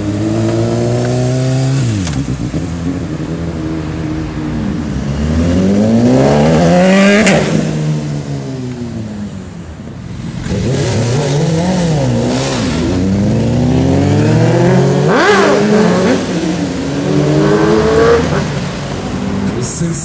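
Sport motorcycles accelerating hard through the gears and passing by, engine pitch climbing in each gear and dropping at each shift. Two loud pass-bys come about seven and fifteen seconds in, with a quieter lull around ten seconds.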